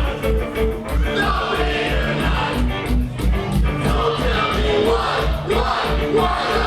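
Punk rock band playing live: fast, steady drums with cymbals, and amplified guitars and bass.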